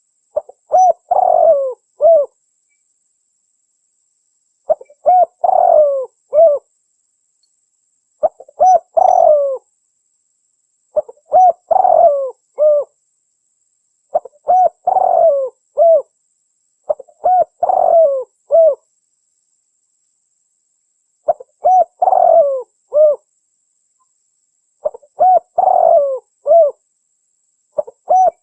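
Spotted dove (tekukur) cooing in a recorded lure call. A phrase of several coos comes about every three and a half seconds, eight times over, with complete silence between phrases.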